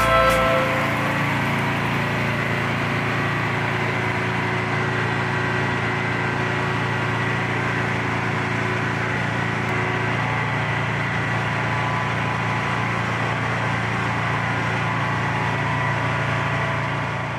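A car engine idling steadily, with a thin, steady high tone over the low hum.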